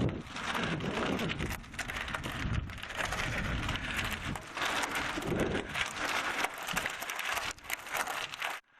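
Riding noise of a bicycle on a climb, heard from a head-worn microphone: steady rushing noise with irregular crackling and rattling throughout.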